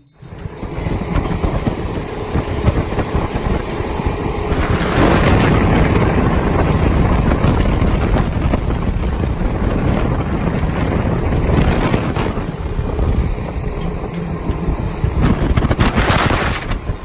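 Fishing boat under way at sea: loud, steady engine noise mixed with rushing noise, with a brief louder, hissing rush near the end.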